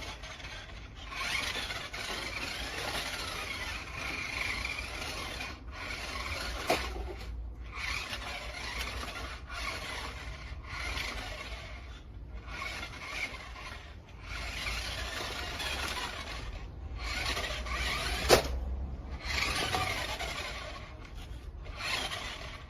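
Remote-controlled toy monster truck's small electric motor and gears whirring in repeated bursts of a second or more, with short breaks between them, as it is driven on and off the throttle.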